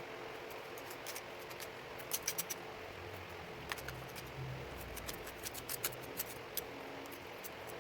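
Scattered light clicks and scrapes of hands-on work, a few at a time in short clusters, over a faint steady background.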